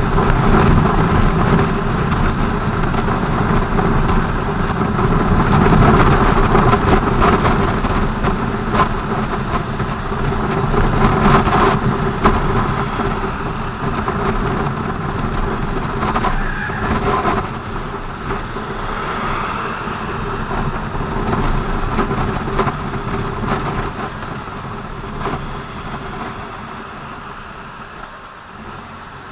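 BMW R 1200 GS boxer-twin engine running on the move, with wind and road noise. It quietens over the last few seconds as the bike slows.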